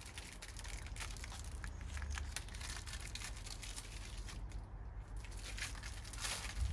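Crinkling and rustling of packaging being handled, in many small irregular crackles, over a steady low rumble.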